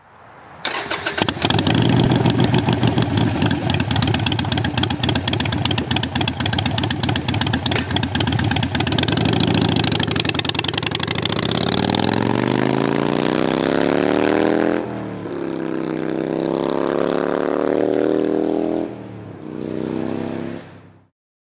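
Harley-Davidson V-twin through open 2-into-2 drag pipes firing up about half a second in and running with a rapid pulsing beat. It is then revved three times, the pitch climbing slowly and dropping back abruptly each time, before the sound cuts off sharply near the end.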